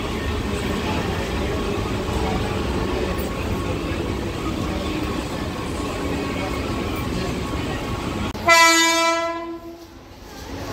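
Mumbai suburban local train (electric multiple unit) rolling past close by, a steady rumble of wheels and carriages. About eight and a half seconds in, a loud single train horn blast sounds for about a second and then fades.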